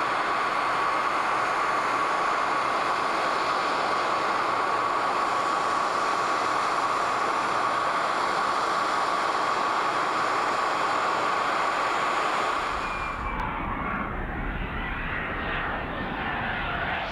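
Boeing X-32 jet demonstrator's engine running: a steady rushing roar with a held high whine. About two-thirds of the way through, the sound changes abruptly to a deeper rumble with a whine that falls in pitch.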